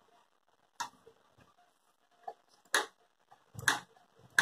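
Sharp clicks and knocks, four of them spread irregularly over a few seconds, the loudest in the second half.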